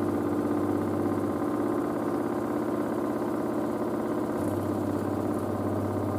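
LG DirectDrive F1496AD washer dryer spinning at high speed in its first spin of 1000 RPM: a steady hum from the direct-drive motor and drum.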